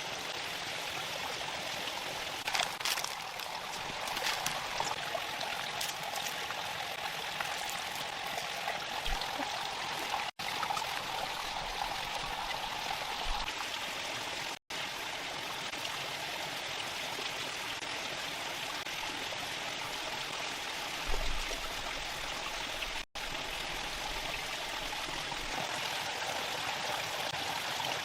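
Running water flowing steadily, a continuous even rush, broken by three very brief dropouts.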